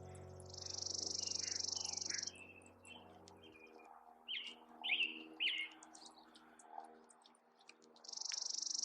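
Songbirds calling: a high buzzy trill, heard twice, and a scatter of sharp chirps, with three loud downward-slurred calls about halfway through. Soft sustained music notes run underneath.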